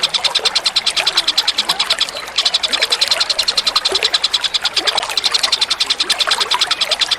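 A small songbird's recorded call: a rapid, even, high-pitched trill of about ten pulses a second, with a brief break about two seconds in. Faint trickling water runs underneath.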